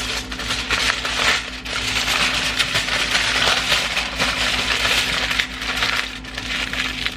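Tortilla-wrapped breakfast burrito sizzling and crackling in a frying pan as it crisps on the outside, over a faint steady hum.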